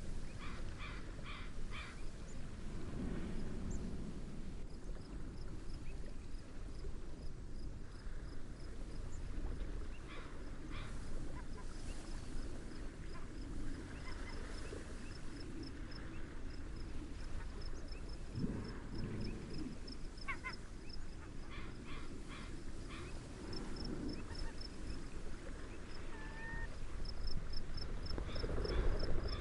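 Layered seaside nature ambience: a steady rush of wind and waves, with short repeated bird calls at the start and scattered calls later. A fast, even cricket chirp comes in about five seconds in and runs on.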